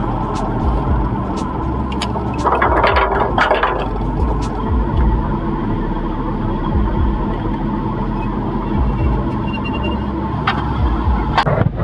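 A vehicle engine running steadily, with a burst of hiss about two and a half seconds in that lasts about a second and a half, and scattered clicks.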